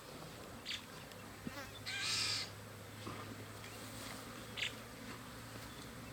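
Insect buzzing in a steady low drone, with a louder short rasping burst about two seconds in and a couple of brief high chirps.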